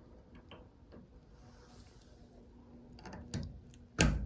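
Small plastic clicks and taps as a part is reconnected onto an LG front-loading washer's replacement inlet valve, with a run of ticks a little after three seconds and one louder sharp click or knock near the end.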